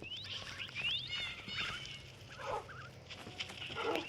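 Animal calls: a rapid series of short, high chirps that rise in pitch, with a couple of lower squeaky calls about two and a half seconds and four seconds in.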